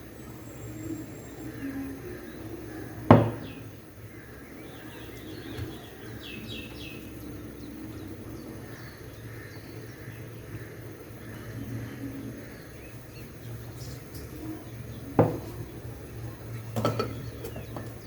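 Kitchen sounds over a steady low hum: two sharp knocks of kitchenware being set down or struck, about twelve seconds apart, and a few lighter clinks near the end.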